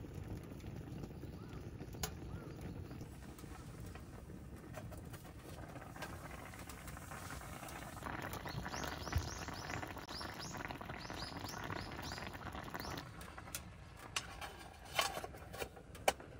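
A small bird chirping in a quick run of short rising calls, over a steady low background rumble. A few sharp clicks come near the end.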